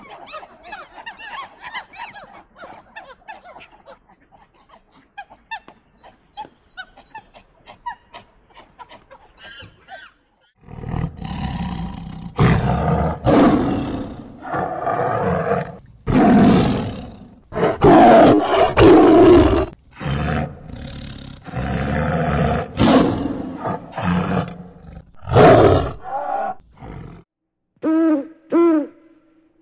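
Tiger roaring and growling in a run of loud, long calls, after a quieter stretch of short squeaks and clicks. Near the end, a few owl hoots begin.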